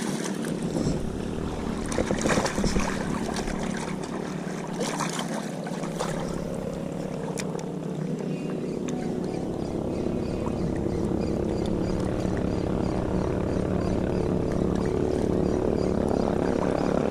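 Small boat engine running steadily and growing gradually louder, with a few knocks in the first several seconds.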